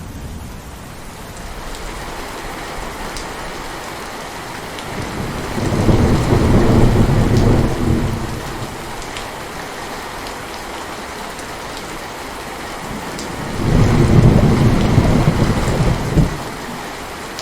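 Heavy rain falling steadily, with two long rolls of thunder rumbling a few seconds apart: a thunderstorm.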